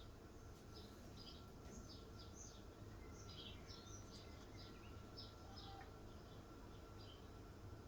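Faint birds chirping: short, high notes about two a second, irregularly spaced, over a low steady background hum.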